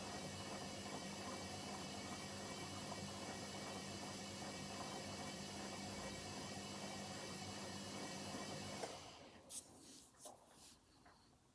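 Hoover H-Wash 300 washing machine running with a steady hum and a rush of water, which stops suddenly about nine seconds in. A few sharp clicks follow.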